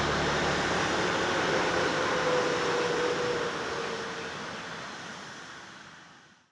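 Jet airliner engine noise, a steady rush with a faint, slowly falling tone, fading away to silence over the last few seconds.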